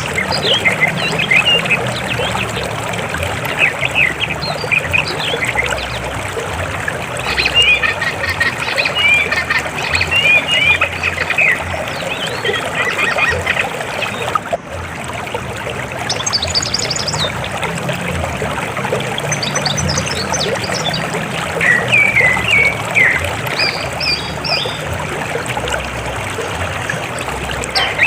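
River water flowing steadily, with birds chirping in scattered bursts over it.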